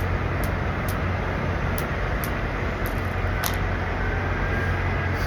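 Steady low hum of idling truck engines at a truck stop, with faint, evenly spaced high ticks about twice a second.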